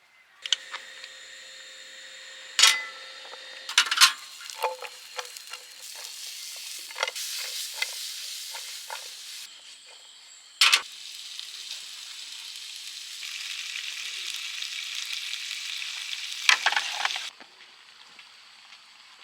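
Food sizzling in a pan, with clinks and knocks of a cooking utensil against it; the sizzling cuts off suddenly near the end.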